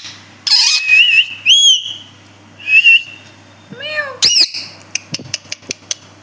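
Pet parrot calling: a series of short rising whistled calls, then two arching, meow-like calls about four seconds in, followed by a quick run of sharp clicks.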